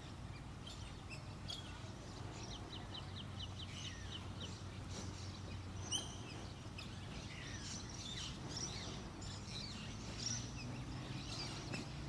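Background birdsong: scattered high chirps and calls from birds around the bower, with a quick run of about nine short high notes a few seconds in, over a low steady hum.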